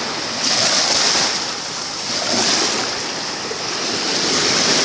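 Sea surf rushing in, with three swells of noise about two seconds apart as waves wash up.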